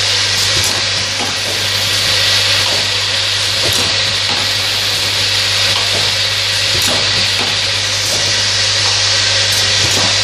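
Small-bottle filling machine running: a steady hiss over a constant low hum, with scattered light clicks.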